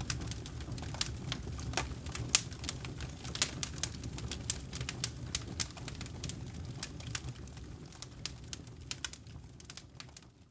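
Wood campfire burning: a steady low rumble of flames with frequent sharp crackles and pops of burning logs, fading out over the last couple of seconds.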